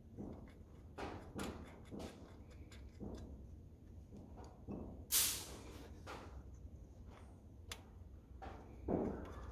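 Scattered metallic clicks and knocks of hand tools working on the engine as the water pump pulley bolts are done up, over a steady low hum. About five seconds in, one short loud hiss-like burst stands out.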